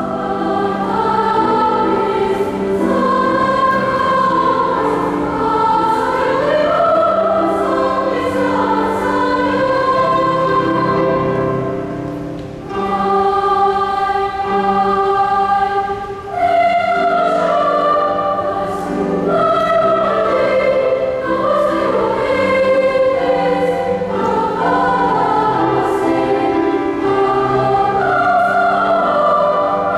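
Choir singing a song in several parts, with short breaks between phrases about 12 and 16 seconds in.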